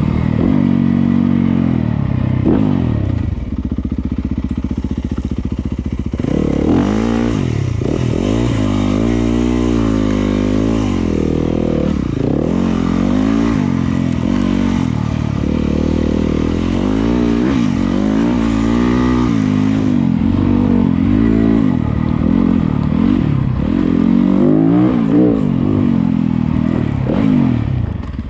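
Yamaha YZ250FX's single-cylinder four-stroke engine under way on a dirt trail, its pitch rising and falling over and over as the rider opens and closes the throttle and shifts gears.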